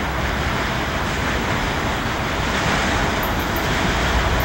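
Approaching freight train led by a CSX GE diesel locomotive: a steady rumble of the engines and the rolling train, growing slowly louder as it nears.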